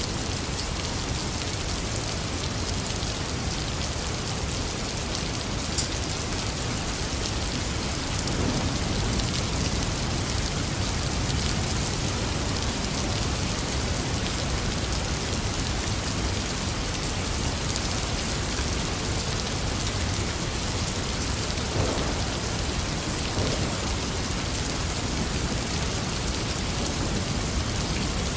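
Heavy rain pouring steadily, a dense even hiss with a deep low rumble beneath it and a few sharper drop ticks.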